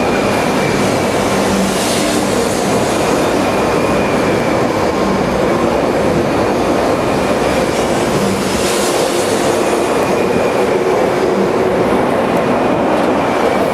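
Shinkansen train running along the platform, a loud steady rolling rumble with faint steady whining tones. Two brief hissy swells come about two seconds and nine seconds in.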